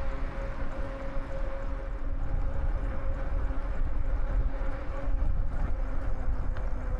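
Wind buffeting the microphone during a bike ride, a heavy low rumble, with a faint steady hum underneath.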